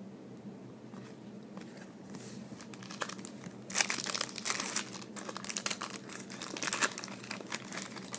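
Wrapper of a 2013-14 Upper Deck SPx hockey card pack being torn and crinkled, building up about two seconds in and loudest in the second half.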